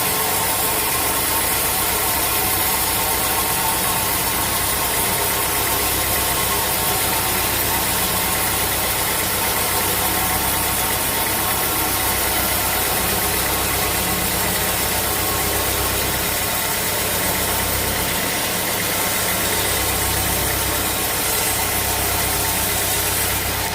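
Sawmill machinery running steadily: a steady engine drone with a constant hiss over it, without breaks.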